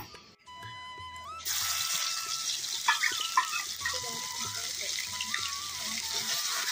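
Ground spices sizzling in hot oil in a kadhai over a wood fire, the hiss starting suddenly about a second and a half in, with a couple of metal clinks of a ladle against the pan around the middle.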